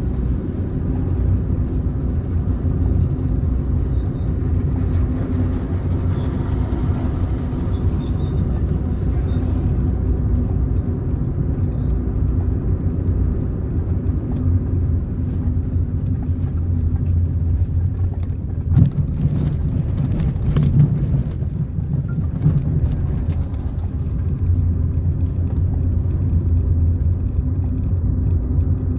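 A car driving along the road: a steady low engine and tyre rumble, with a couple of short knocks about two-thirds of the way through.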